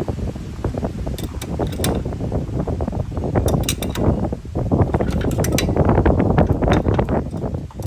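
Hand ratchet wrench clicking rapidly and continuously as bolts are tightened, fastening the engine to the engine stand.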